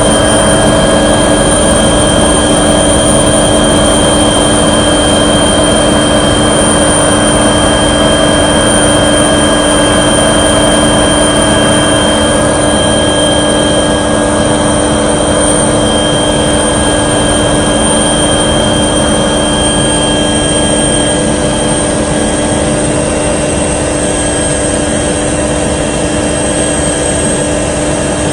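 Aircraft engine droning steadily, heard from on board, with a constant hum and several fixed whining tones that do not change pitch.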